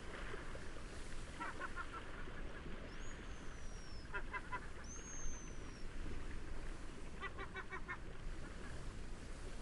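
Birds calling in quick series of short harsh notes, three bouts, with two thin high whistled notes that slide downward in between, over a steady hiss of wind and waves.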